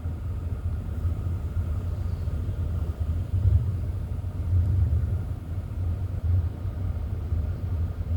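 Low rumble of a car heard from inside its cabin as it drives slowly, with the windows up.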